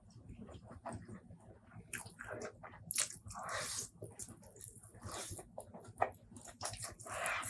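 Close-miked eating: wet chewing and lip-smacking clicks, with two longer noisy mouth sounds, about three seconds in and near the end.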